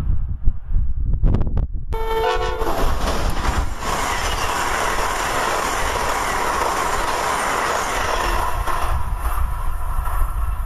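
Amtrak AEM-7AC electric locomotive gives a short horn blast about two seconds in, then the Northeast Regional train passes at speed: a steady rush of wheels on rail that fades away near the end.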